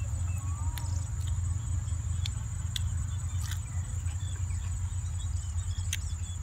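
Close-up chewing mouth sounds: irregular wet clicks and smacks as a man eats raw vegetables. Underneath runs a steady low rumble, a constant high insect drone and a few short chirps.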